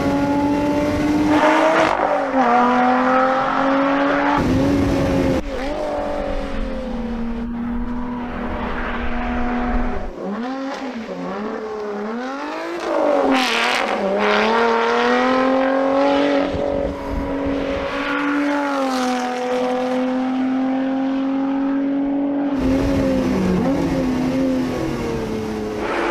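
Lotus Exige Cup 430's supercharged 3.5-litre V6 driven hard on a circuit. The revs climb and drop again and again, with sudden pitch drops at gear changes and a swoop down and back up through a corner.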